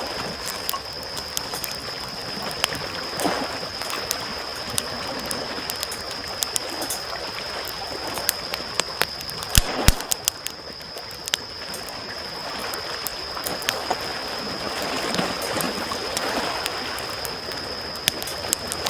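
Small waves washing in on the shore, swelling every few seconds, while a wood campfire crackles and pops throughout, with two sharp pops about halfway through.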